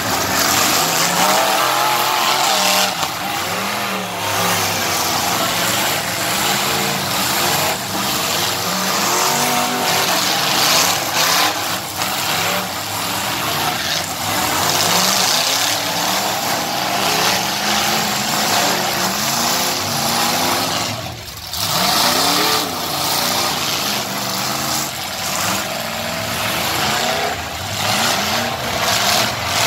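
Several full-size car and truck engines revving hard and falling back at once, their pitches gliding up and down over each other, with occasional knocks.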